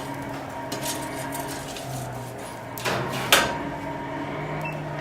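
Metal objects clinking and knocking in a blacksmith's forge, with one sharp metallic strike about three seconds in, over a steady low hum.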